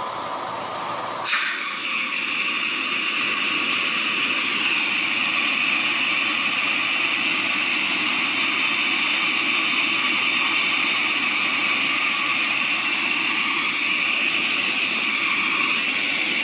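Miele Red Velvet canister vacuum's motor running with its inlet sealed onto a water-lift gauge, pulling maximum suction, with a steady airy hiss. About a second in the sound changes suddenly, the lower part dropping away and a higher hiss taking over, then it holds steady.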